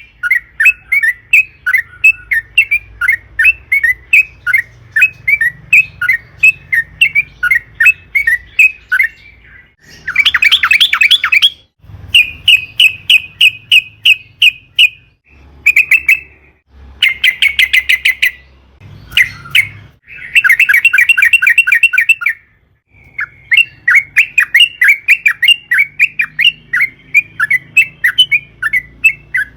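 Yellow-vented bulbul (trucukan) singing: a long string of quick, repeated notes, then from about ten seconds in a series of faster, denser rolls broken by short pauses.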